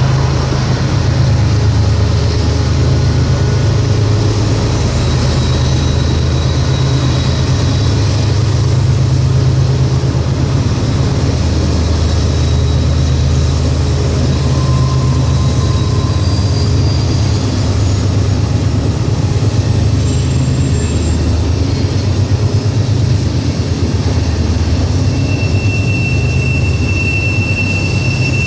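Train rolling past: a steady low rumble of the cars on the rails, with thin high wheel squeals, one held steadily near the end.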